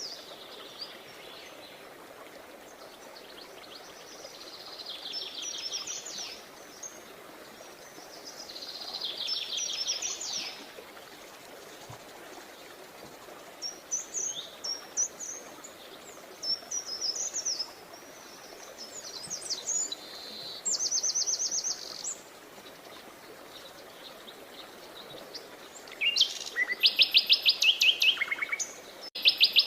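Songbirds singing in short phrases of rapid, high trills and chirps, a few seconds apart, over a faint steady background hiss. The loudest and fastest trilling phrases come near the end.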